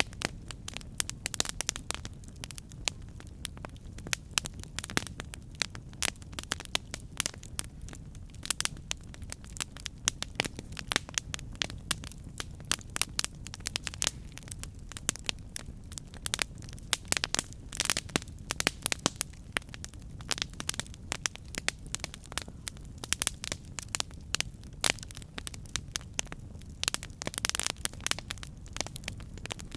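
Wood fire burning, crackling and popping irregularly over a low, steady rumble of the flames, with a brief flurry of louder pops near the end.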